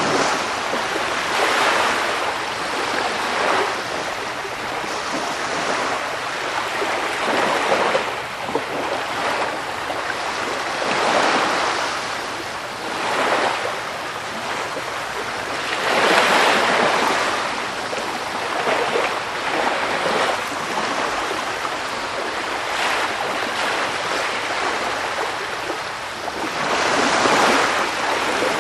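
Sea waves washing onto the shore in a continuous rushing wash that swells into a louder surge every few seconds as each wave breaks.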